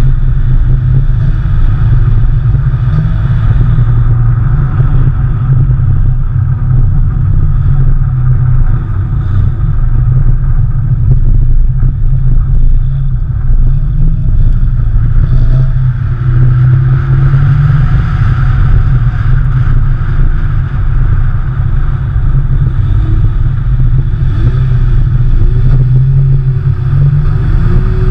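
Porsche 911 flat-six engine running hard during a snow drift, a loud, steady low rumble whose pitch swings up and down a few times around the middle and near the end.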